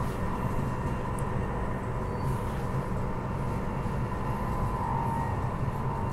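Transperth B-series electric multiple unit running at speed, heard from inside the carriage: a steady low rumble of wheels on track with a steady humming tone above it.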